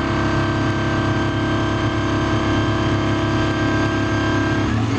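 Vehicle engine running at a steady speed, a constant drone; the sound changes abruptly just before the end.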